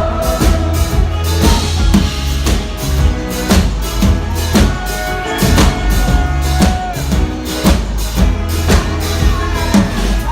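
Live band playing an instrumental passage of a pop-rock song: a steady kick-and-snare drum beat over a heavy bass line, with sustained melodic instrument lines on top.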